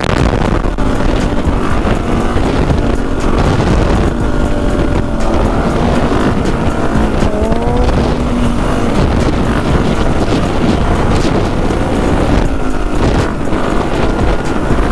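Dirt bike engine running hard while riding, revs rising and falling through the gears.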